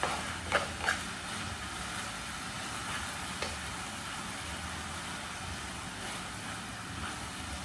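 Vegetable fried rice sizzling in a pan on a portable butane gas stove, over the burner's steady low rumble. A spatula clicks against the pan a few times in the first second and once more about three and a half seconds in.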